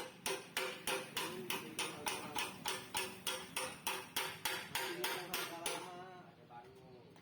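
Hammer blows on a steel motorcycle exhaust, panel-beating out dents. There are about twenty steady, evenly spaced strikes at roughly three a second, each ringing briefly; they stop about six seconds in.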